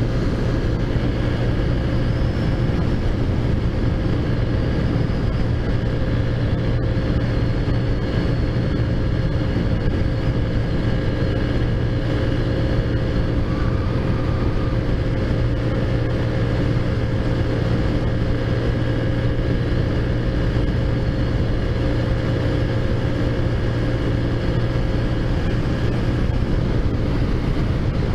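Taotao Zummer scooter's big-bore-kitted four-stroke engine running at a steady speed, its pitch holding level throughout.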